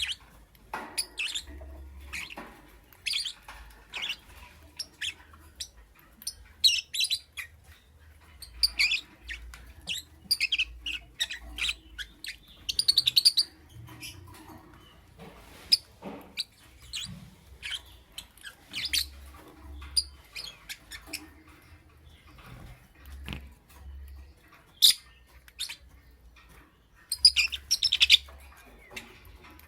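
Lovebird chirping: short, sharp, high-pitched chirps coming irregularly, every second or so, with some quick rattling trills among them.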